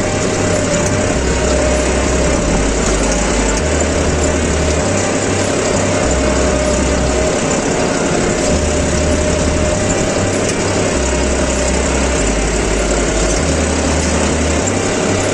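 John Deere 5310 tractor's three-cylinder diesel engine running steadily under load while pulling a cultivator.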